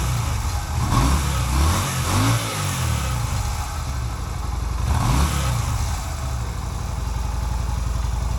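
Yamaha V Star 250's air-cooled V-twin engine being revved with quick throttle blips, several over the first few seconds and one more about five seconds in, the pitch rising and falling each time, then settling back to a steady idle.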